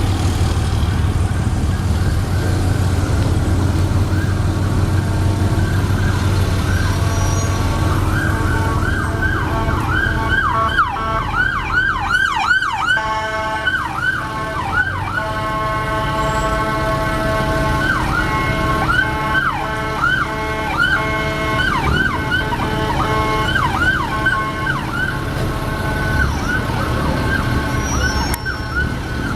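Traffic and engine rumble, then about eight seconds in an emergency-vehicle siren starts in a fast yelp, about three pitch sweeps a second, broken by steady blasts of a horn, and the siren grows fainter near the end.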